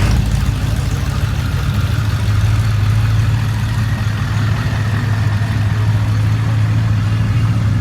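A motor vehicle engine idling steadily, a constant low hum.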